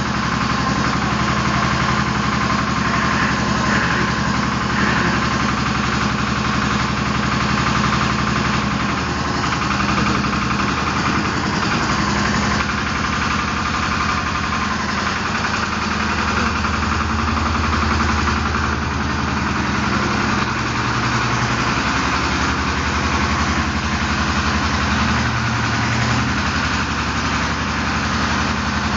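Agria walking tractor's engine running steadily at a low, even speed, its beat slightly changing pitch a few times.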